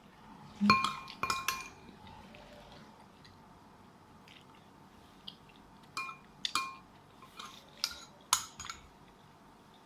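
A spoon clinking against a dish: a few short ringing clinks about a second in, then another run of clinks from about six to nine seconds in.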